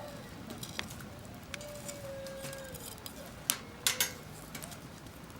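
Wood campfire burning, with a few sharp crackling pops about three and a half to four seconds in. A faint drawn-out call rises and falls in the background.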